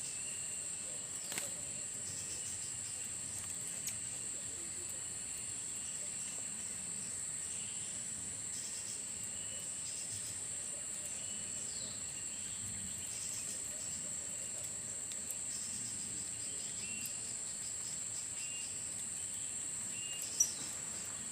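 Steady high-pitched insect drone, with faint short chirps repeating over it and a sharp click about a second in and another near the end.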